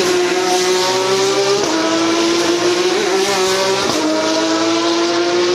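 Porsche Carrera Cup race car's flat-six engine running at high revs: a sustained, steady engine note that steps in pitch about one and a half seconds in and again near four seconds.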